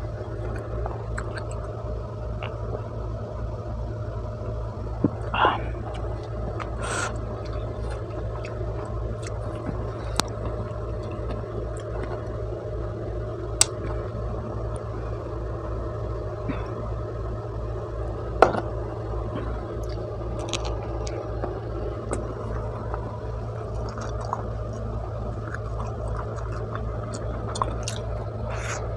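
Close-miked eating sounds from a lapel mic: chewing with occasional lip smacks and clicks while eating pizza, over a steady low hum.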